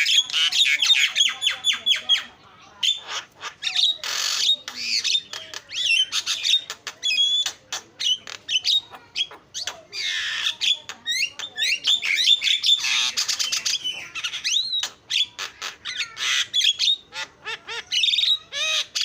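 Javan myna singing a long, varied song of harsh squawks, rapid chattering runs and bending whistled notes, with a short lull early on.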